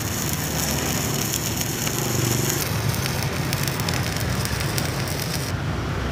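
Stick-welding (MMA) arc burning steadily as an electrode is run along a joint, stopping about five and a half seconds in. A low hum runs underneath.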